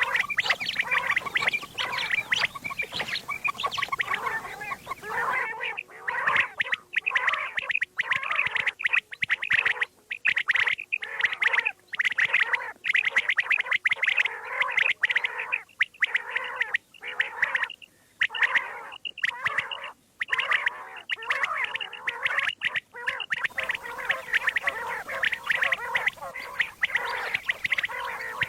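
Quail calling without pause, a dense run of rapid, chattering calls. The faint background hiss drops away about five seconds in and returns near the end.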